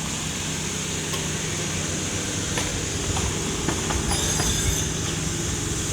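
A vehicle engine running steadily with a low hum, a few light clicks and a short hiss about four seconds in.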